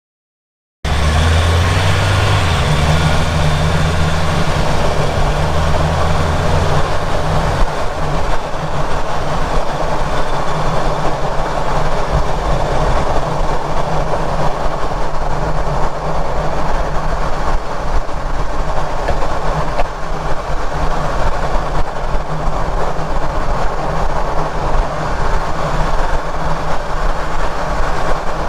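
Underbody drivetrain and road noise of a Ford Ranger Raptor on the move, heard from right at the rear differential and prop shaft centre bearing. It is a loud, steady rumble and rush that starts abruptly about a second in, with a low hum over the first several seconds. No grinding was found at this spot, so the bearing and rear diff are taken as clear.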